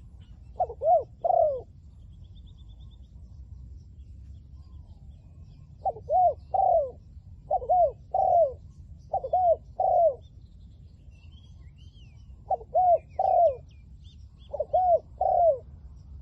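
Spotted dove cooing: six short phrases of two or three arched coos each, with pauses between them. Faint chirps of small birds sound higher up, over a low steady rumble.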